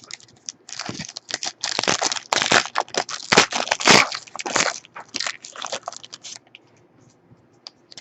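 Foil trading-card pack wrapper being torn open and crinkled: a dense, irregular crackling for about six seconds that stops shortly before the end.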